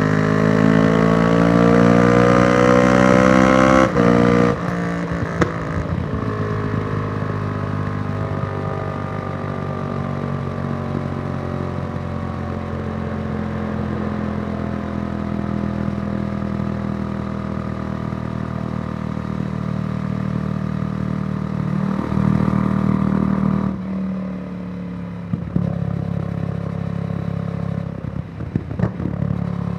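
Yamaha YZF-R1's crossplane inline-four through a Yoshimura exhaust, revving up hard for about four seconds before the throttle shuts suddenly. The engine note then falls slowly as the bike slows. Near the end there is a brief burst of throttle, then a lower note with a few sharp knocks.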